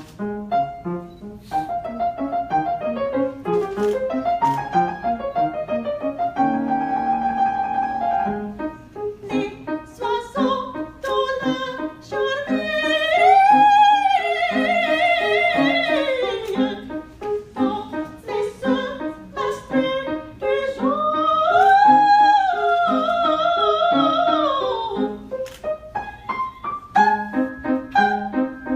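Piano accompanying a high, classical-style singing voice, which holds two long notes with wide vibrato, one about halfway through and one near the end.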